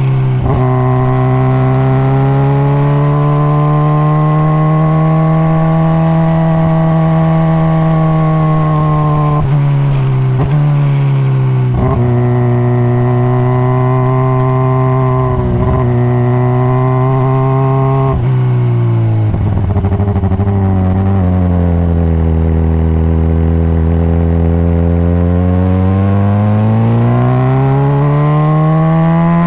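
2021 Honda CBR600RR's inline-four engine through its stock exhaust, heard on board while riding. The engine pitch rises and falls smoothly with the throttle, with a few brief breaks in the middle. It drops low about two-thirds through, then climbs again near the end.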